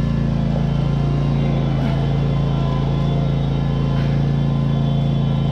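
Riding lawn mower engine running at a steady speed, pulling a heavy load.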